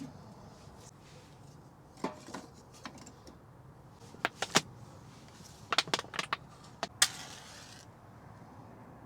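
Scattered sharp clicks and knocks in small clusters, about two, four and a half and six seconds in, with a last click about seven seconds in followed by a short hiss.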